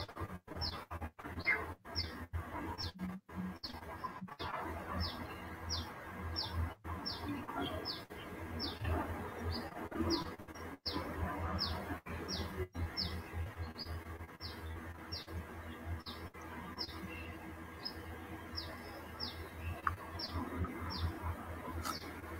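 A small bird chirping over and over, short high chirps that drop in pitch, about two a second, with a steady low hum beneath.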